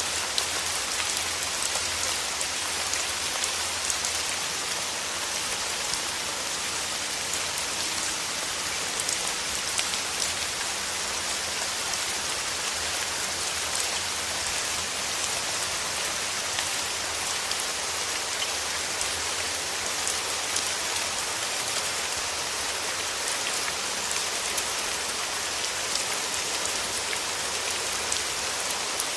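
Steady rain falling, a continuous even hiss dotted with the fine patter of individual drops striking a surface.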